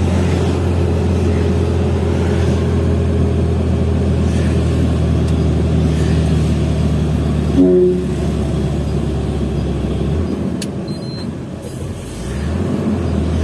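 Hino FL 260 JT truck's six-cylinder diesel engine running steadily under load. A short louder sound comes about eight seconds in, and the engine note falls away about ten seconds in, then picks back up near the end.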